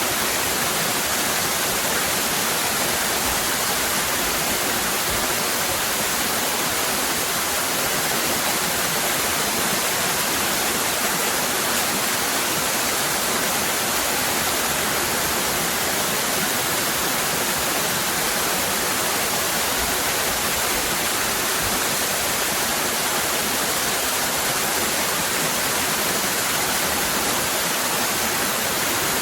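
Waterfall cascading in a steady, even rush of water.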